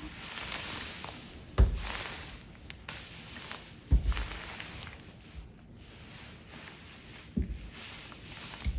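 Four dull knocks, about two to three seconds apart, over a soft rustling hiss, like household objects being handled and set down.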